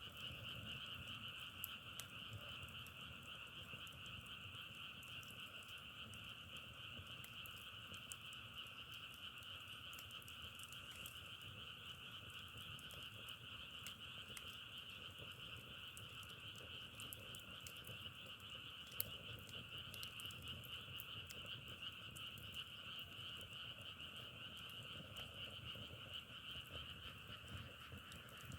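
A dense chorus of frogs calling steadily, their many voices merging into a continuous high trill, with scattered faint clicks and one sharper tick about two-thirds of the way in.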